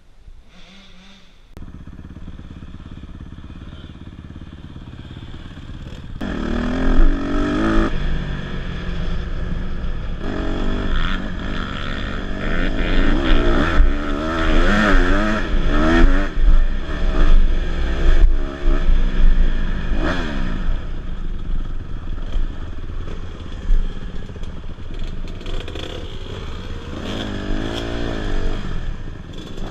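Dirt bike engine running at low revs, then from about six seconds in revving up and down repeatedly as it is ridden.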